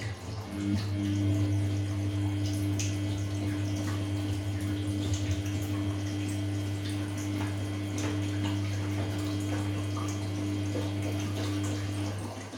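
Samsung P1271 front-loading washing machine running with water flowing through it, over a steady electrical hum that starts about half a second in and cuts off shortly before the end.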